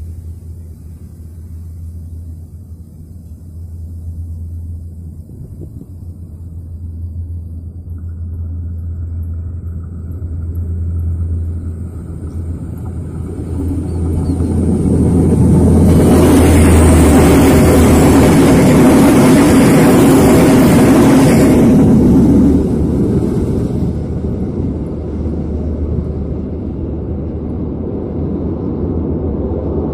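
Diesel-hauled inspection train approaching, its engine rumble slowly building, then passing close by with loud wheel-on-rail noise for about six seconds that cuts off suddenly, leaving a lower rumble as it moves away.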